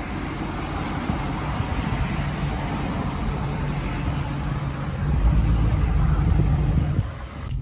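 Dodge Charger Scat Pack's 392 Hemi V8 running through an exhaust with the mid mufflers deleted, a deep raspy drone while driving. It grows louder about five seconds in as the engine is pushed harder, then falls away shortly before the end.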